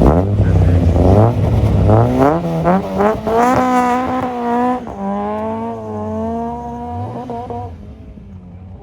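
Rally car launching and accelerating hard, its engine note climbing in steps through several quick gear changes. It then holds a steady note and fades as the car draws away.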